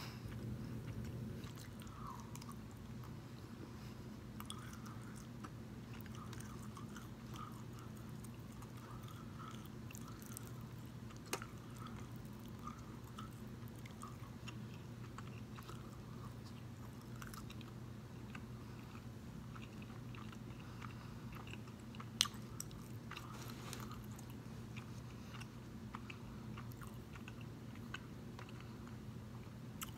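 A person chewing a mouthful of turkey bacon close to the microphone: soft, quiet mouth sounds with a couple of faint clicks about 11 and 22 seconds in, over a steady low hum.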